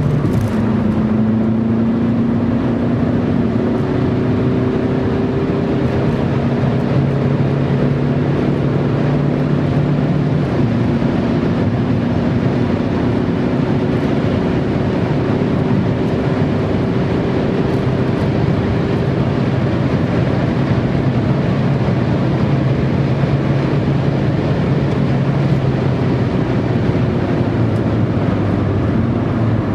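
Car engine and road noise heard from inside the cabin while lapping a race track at speed. The engine note holds loud and steady, its pitch drifting slowly up and down, with a shift about ten seconds in.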